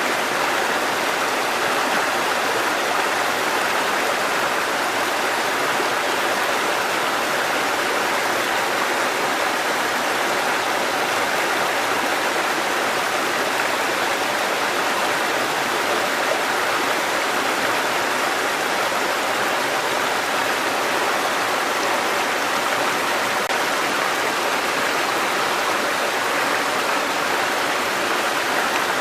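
Mountain stream cascading over rocks: a steady, unbroken rush of water.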